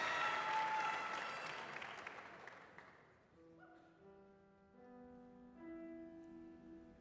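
Audience applause fading away over the first three seconds. Then soft, sustained instrumental chords begin, held notes changing chord a couple of times: the opening of a song.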